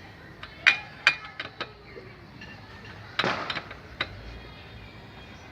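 Metal tools and parts clinking and knocking as they are handled: a few sharp strikes about a second in, a short burst of clatter a little past three seconds, and one more knock soon after.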